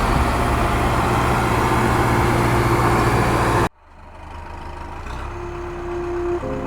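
Small motor of a DIY mini tractor running steadily. It cuts off abruptly about halfway through, then comes back quieter and slowly grows louder, with a few steady whining tones.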